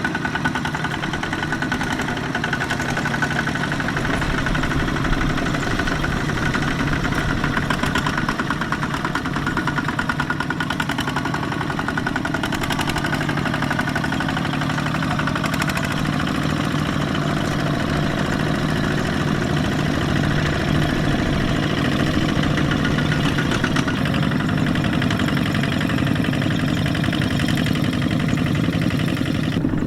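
Kubota mini tractor engine running steadily, its note shifting slightly about sixteen seconds in.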